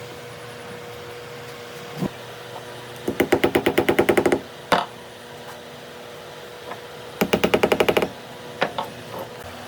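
Wood being carved with a chisel driven by quick mallet taps: two fast runs of knocks, about ten a second, with single knocks between them.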